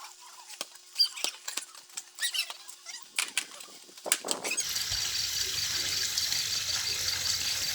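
A few short high chirps and clicks, then, about three-quarters of the way through, a steady hiss of water spraying from a garden hose starts abruptly.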